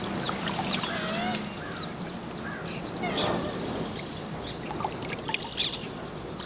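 Birds calling: many short, high chirps in quick succession with a few lower, wavering and sliding calls, over a steady outdoor hiss.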